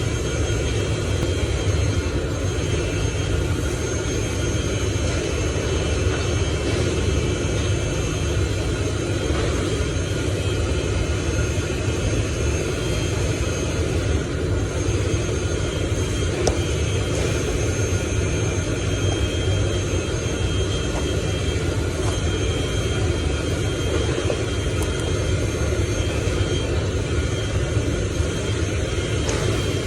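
A steady, unchanging engine-like rumble with a few faint, constant high tones above it.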